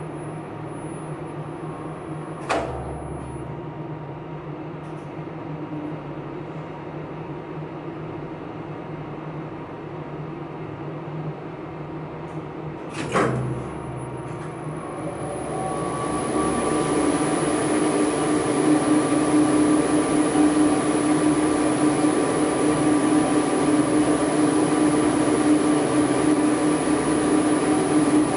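Elevator machine room equipment humming steadily, with two sharp clicks, one a few seconds in and one about halfway. A little after the second click the machinery grows louder and settles into a stronger steady hum with a high whine.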